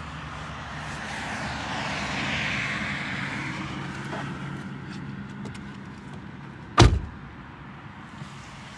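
A vehicle passing, its engine and tyre noise swelling to a peak about two seconds in and then fading over a steady low hum. A single sharp thump about seven seconds in.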